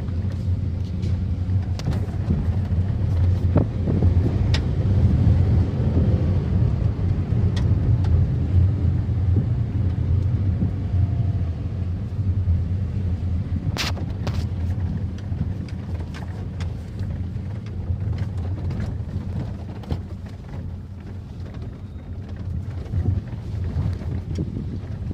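Car driving, with a steady low drone of engine and road noise and wind buffeting the microphone. A sharp click comes about halfway through.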